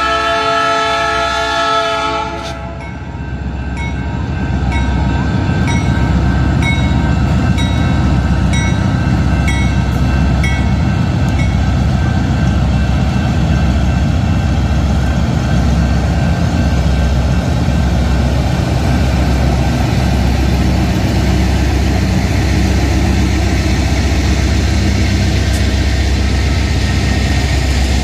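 The lead diesel locomotive's horn sounds for the grade crossing and cuts off about two seconds in. Then the BNSF freight train's locomotives pass close by, their diesel engines giving a loud steady low rumble over the noise of rolling wheels, while a crossing bell dings evenly for several seconds.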